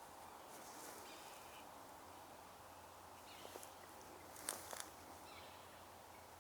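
Quiet woodland ambience with a few faint, distant bird calls. A short cluster of sharp clicks comes about four and a half seconds in.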